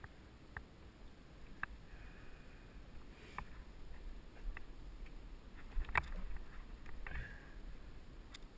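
Mountain bike rolling over a dirt trail: a low, steady rumble of tyres and riding noise, with scattered sharp clicks and knocks from the bike, the loudest about six seconds in.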